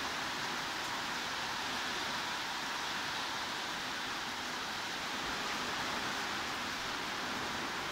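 Steady heavy rain, an even hiss with no distinct drops or breaks.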